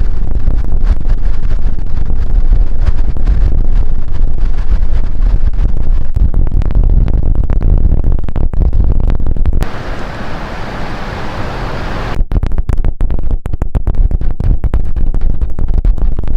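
Strong wind buffeting the microphone with a loud, deep, ragged rumble. About ten seconds in it eases for a couple of seconds into a steadier hiss, then the gusting returns.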